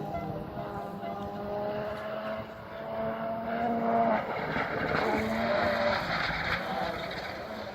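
Rally car engine running hard on a gravel stage, its note climbing for about four seconds, then breaking and dropping as the driver shifts or lifts. The note then climbs again, with loose gravel rattling under the tyres.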